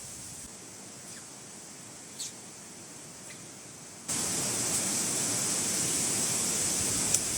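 Mountain stream water rushing steadily. It becomes abruptly louder and hissier about four seconds in, and there is a short click near the end.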